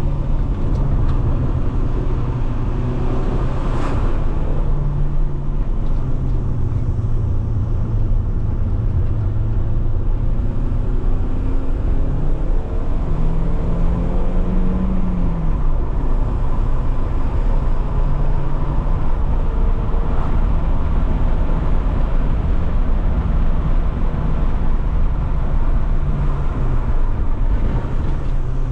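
Alfa Romeo 156 1.8 Twin Spark four-cylinder engine pulling the car along at a steady speed, heard over road noise. Its note rises briefly about halfway through, then settles, and dips for a moment near the end.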